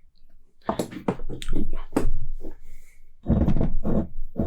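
Beer bottle and glass being handled: a run of irregular knocks and clinks, with a louder low thump about three seconds in.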